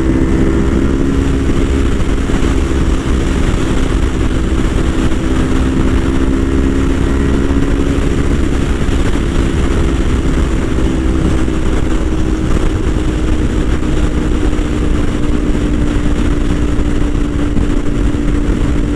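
Kawasaki Ninja 500 parallel-twin engine running at a steady freeway cruise, its pitch easing slightly at first and then holding, under heavy wind rush on the helmet-mounted microphone.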